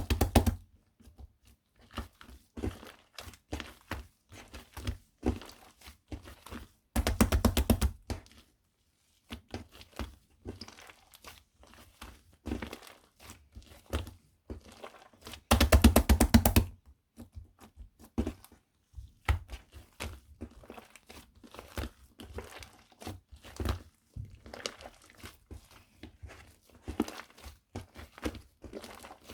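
Shaving foam being mixed and squished, giving soft irregular crackles, clicks and small pops of air. Twice, about a quarter of the way in and just past halfway, it gives a louder burst of rapid crackling for about a second.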